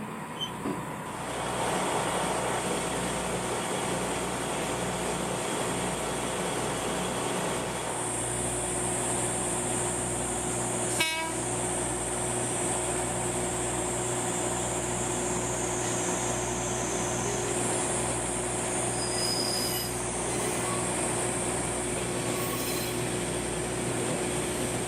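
Locomotive-hauled trolley train running on the rails with a steady engine drone and a high steady hiss. One sharp click comes about eleven seconds in.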